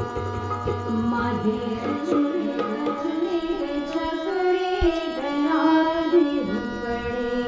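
Marathi devotional bhajan music from a women's bhajan group: steady held instrumental notes, Indian hand-drum rhythm and a singing voice.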